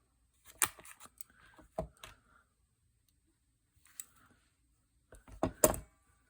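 Sharp clicks and knocks of a hand tool punching holes in paper for eyelets, with light paper handling between; the loudest pair of snaps comes near the end.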